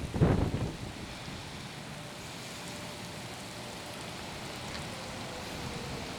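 Rain and wind of a severe thunderstorm: a steady hiss after a loud low rumble in the first half second. A faint steady tone sits in the background, slowly dropping in pitch.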